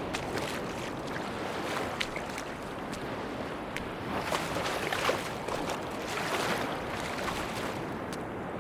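Sea surf washing onto a beach: a steady rush of water, with a couple of louder, fizzing washes past the middle and scattered small clicks and crackles.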